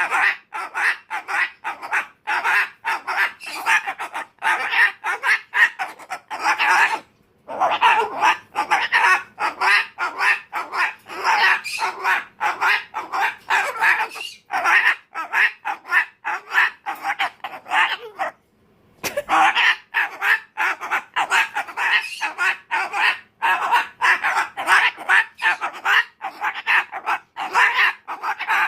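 Umbrella cockatoo screaming in a tantrum: a long, rapid string of short squawks, about four or five a second, broken by two brief pauses about 7 and 18 seconds in.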